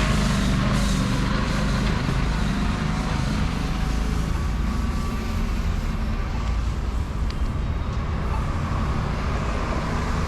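A heavy road vehicle's engine runs with a low, steady hum over continuous city traffic noise. The hum is strongest in the first couple of seconds.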